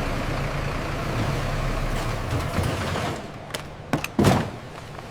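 A steady low mechanical rumble with hiss for about three seconds, which then drops away, followed by a few sharp knocks near the end, the loudest about four seconds in.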